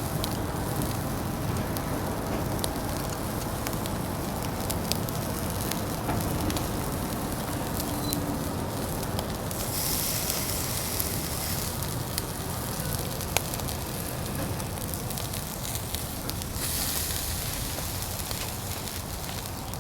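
Fire burning in a Uniflame Fire Grill fire pit under barbecued food, with scattered crackles throughout. Twice, about ten seconds in and again near the end, a louder sizzling hiss rises over it for a few seconds.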